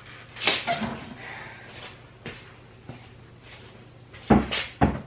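Hand tools being handled while a torque wrench is set on a nut: a brief rustle and scrape, a few light clicks, then two sharp knocks about half a second apart near the end.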